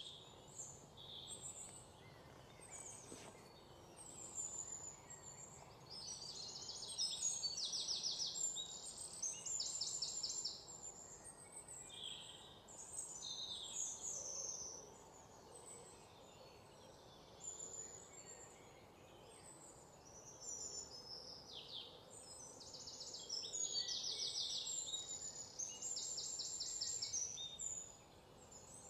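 Birds calling: high chirps, falling whistled notes and rapid trills come and go throughout, over a faint steady outdoor background noise.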